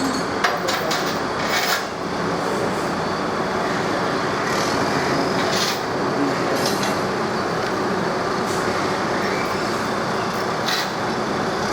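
Sugar-cane train running on narrow-gauge track: a steady rumble and rattle with scattered clicks and knocks.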